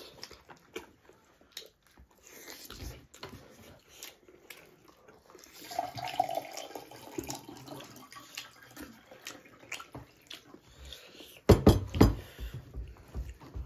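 Close-miked eating sounds: wet chewing and lip smacks as chicken drumsticks and rice are eaten by hand, with scattered small clicks. A cluster of louder knocks comes about eleven and a half seconds in.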